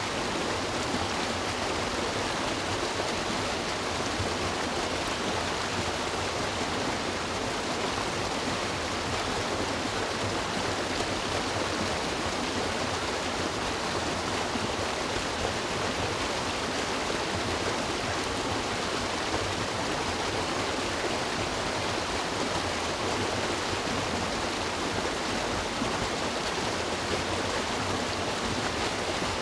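River water rushing and splashing over rocks in a steady, unbroken wash with no change throughout.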